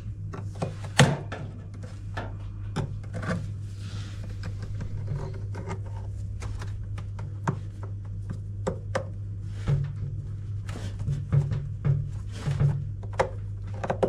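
Irregular clicks, knocks and scraping of tools and metal parts as a hose clamp is worked off inside a washing machine being dismantled, over a steady low hum.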